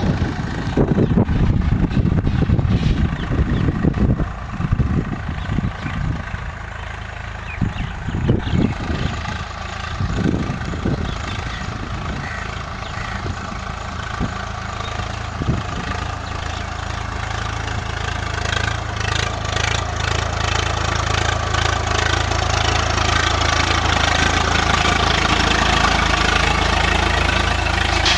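Tractor's diesel engine running under load. It rumbles unevenly for the first several seconds, then settles into a steady drone that slowly grows louder.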